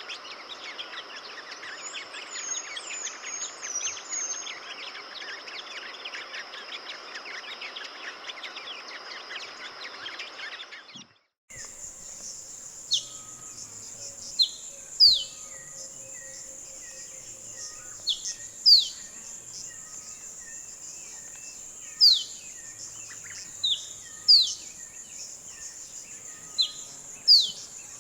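Sunbirds calling over a steady high insect drone. For the first part a dense chirping chorus with a brief high twitter about 2 s in; after a cut, loud sharp whistled call notes, often in quick pairs, repeating every two to four seconds.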